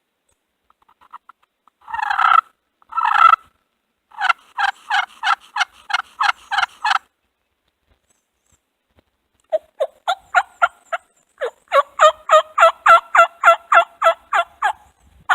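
A hunter's turkey call sounding a run of hen yelps to draw in a gobbler: two longer notes, then a string of about a dozen short, evenly spaced yelps, a pause, and a longer, louder string of yelps.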